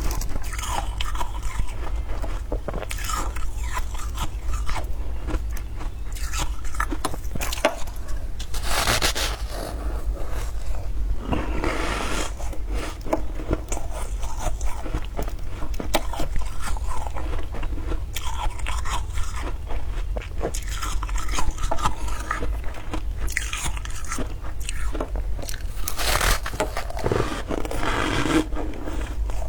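Close-up crunching and chewing of scraped freezer frost, with rapid crackly crunches throughout and several louder bites, one a little over a quarter of the way in, another before the middle, and one near the end.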